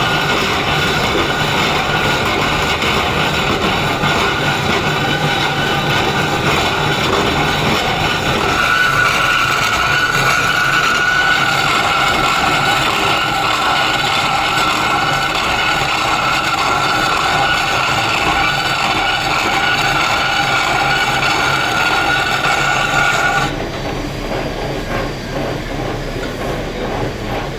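Electric power tool grinding stone, running steadily with a high whine over rough grinding noise, then cutting off sharply near the end, leaving a quieter background rumble.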